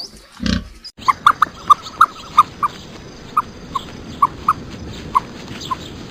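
An animal's short low grunt, then after a cut a series of short, high chirps from an animal repeating about twice a second over a steady high hiss.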